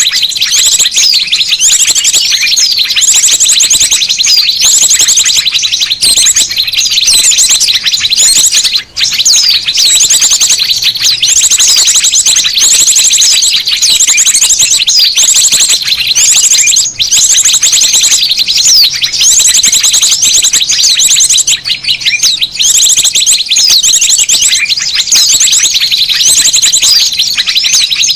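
Many small birds chattering noisily in a dense, continuous twitter of fast high chirps and trills. It is a bird-lure (pikat) recording of agitated small-bird commotion, of the kind used to call small birds in.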